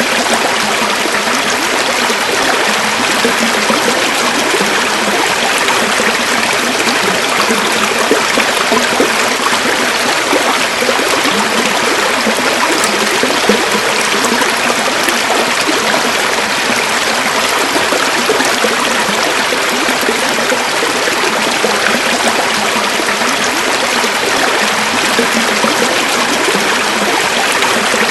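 River water flowing steadily over stones, an even rushing with a light babble and no change in level.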